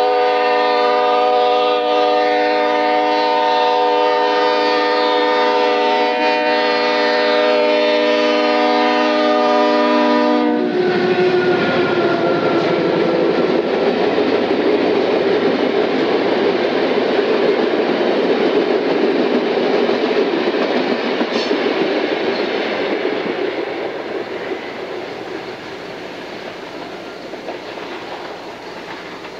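Diesel locomotive air horn blowing one long chord of several notes for about ten seconds, cutting off sharply, then the passing train's cars rumbling and clattering over the rails, fading away near the end.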